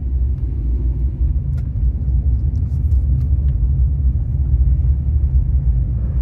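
A loud, steady low rumble, with a few faint clicks above it.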